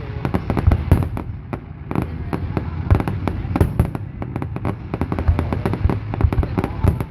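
Fireworks display: a rapid, continuous barrage of bangs and crackles with heavier booms among them, several times a second.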